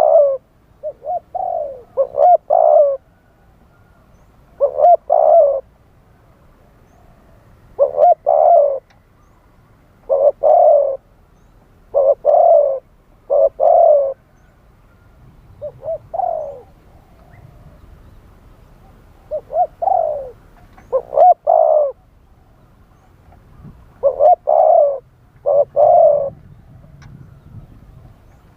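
Spotted dove cooing: about a dozen short phrases of two or three low coos each, repeated every one to three seconds.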